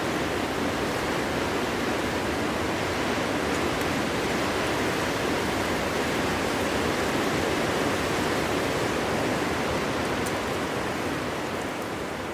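Steady winter wind blowing, an even rush with no gusts or whistles, easing slightly near the end.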